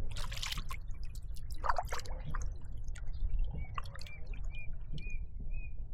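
Water splashing and dripping around a kayak: a few short splashes early on, then a run of small high-pitched drips and plinks.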